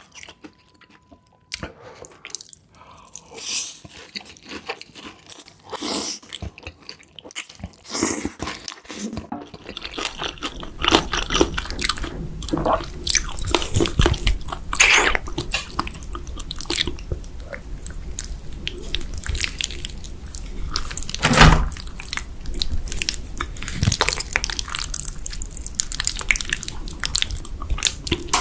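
Close-miked chewing and biting of cheese, with wet mouth clicks. It is sparse for the first ten seconds or so, then denser and fuller, with one loud bite a little past the twenty-second mark.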